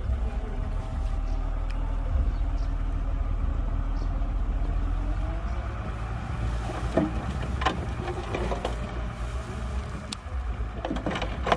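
Heavy diesel engine of earthmoving machinery running steadily with a low rumble, with a few sharp knocks in the second half.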